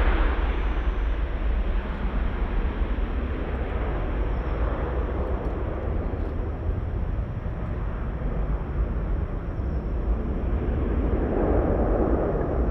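Jet engine noise of an Airbus A330 airliner, a steady rushing sound over a deep rumble. It eases a little in the middle and swells again near the end.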